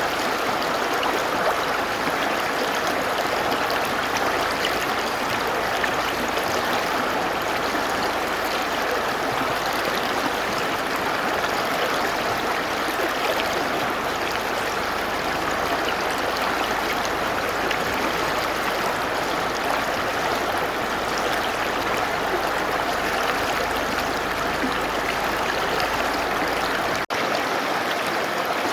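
Mountain river flowing over rocks: a steady, even rush of water with a momentary break near the end.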